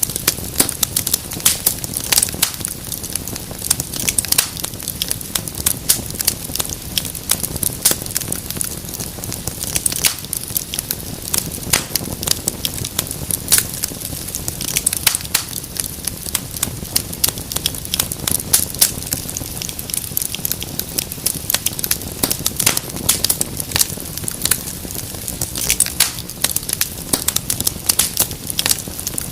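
Wood fire in a fireplace crackling steadily, with many irregular sharp pops and snaps over a low rumble of the flames.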